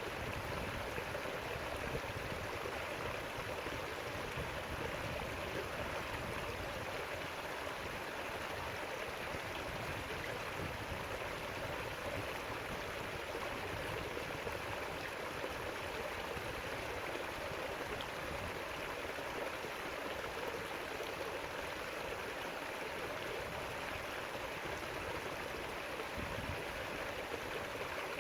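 River water flowing steadily over rocks, a continuous even rushing with gurgling.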